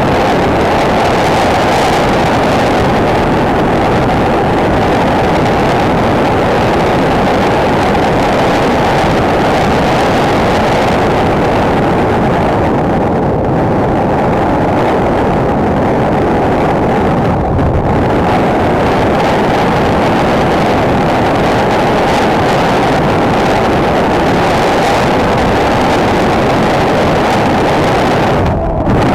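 Single-cylinder enduro motorcycle running at speed, its engine noise blended with heavy wind rush on the action camera's microphone, with a few brief dips.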